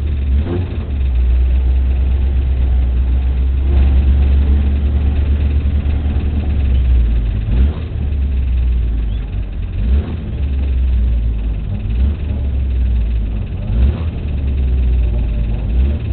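Race car's engine running at low revs while the car creeps forward, heard from inside the cabin: a steady low drone with a few brief dips and blips in level.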